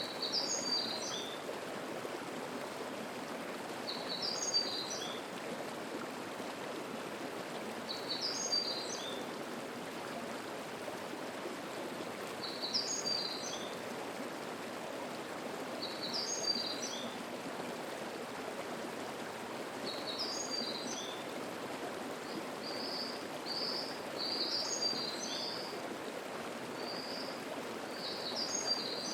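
Mountain stream babbling steadily, with a songbird repeating a short, high song phrase about every four seconds, eight times in all; near the end a few extra short notes come between the phrases.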